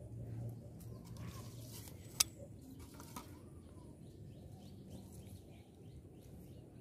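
Faint bird calls over quiet outdoor ambience, with a sharp click about two seconds in and a softer click about a second later.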